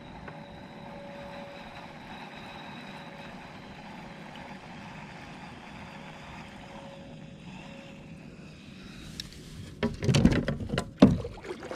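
Steady low background noise from on board a kayak, then a cluster of loud knocks about ten seconds in.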